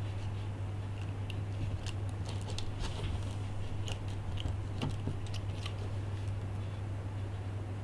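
Scattered light clicks and taps of small hand tools on iPhone parts, over a steady low hum.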